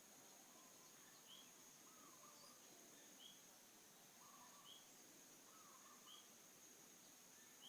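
Faint outdoor bird and insect ambience: a steady high insect whine, a short high chirp repeated about every one and a half seconds, and lower bird calls every second or two.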